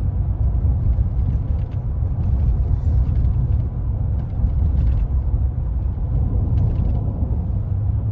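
Low, steady exhaust rumble of a 6.2-litre V8 Chevy Silverado with a muffler delete, heard inside the cab while cruising at light throttle, mixed with road noise.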